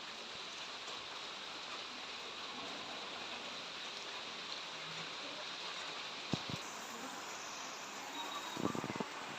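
Steady hiss of rain falling, with two sharp clicks partway through and a short cluster of knocks near the end.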